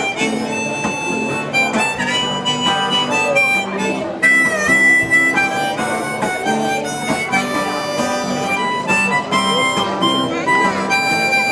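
Harmonica playing the melody over guitar accompaniment, as the instrumental opening of a folk song.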